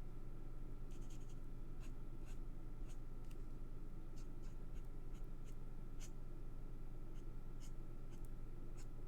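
Marker pen tip scratching across cardstock in short, irregular colouring strokes with light ticks, over a steady low hum.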